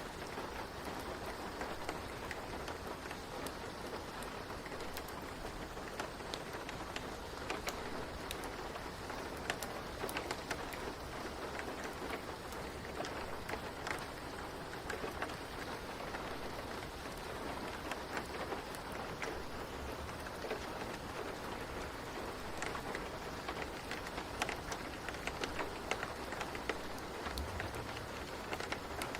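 Steady rain falling, an even hiss with many small sharp ticks scattered through it.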